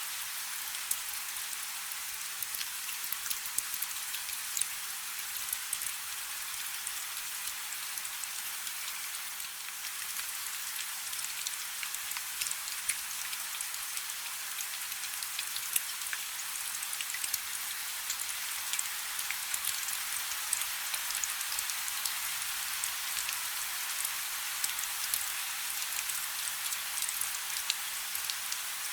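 Light rain falling steadily: an even hiss of rain with many small, crisp drop ticks scattered through it.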